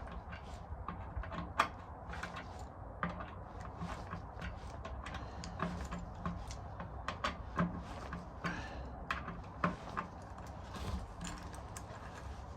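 Irregular small clicks and light metallic knocks of parts and hand tools being handled while fitting a motorcycle part.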